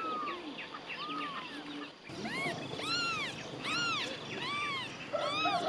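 Newborn kittens mewing: short, high cries that rise and fall in pitch, overlapping one another. They are fainter at first, then louder and coming about twice a second from about two seconds in.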